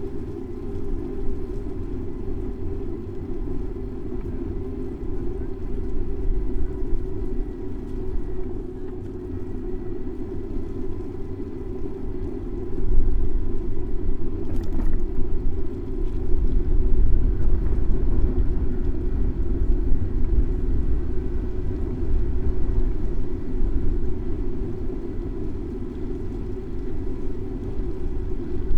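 Steady low rumble of a bicycle ride through city traffic, as heard from a camera mounted on the bike: wind and road noise with passing vehicles. It grows louder from about 13 seconds in.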